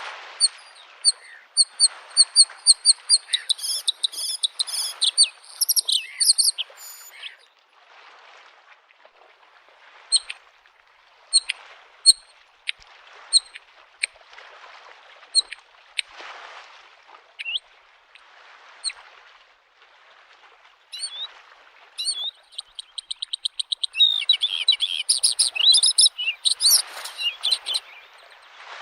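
Bluethroat singing: a run of quickly repeated high notes builds into a busy, varied phrase, then only scattered single notes, then a fast trill and another busy phrase near the end. Small waves lap at the shore underneath, a soft wash every second or two.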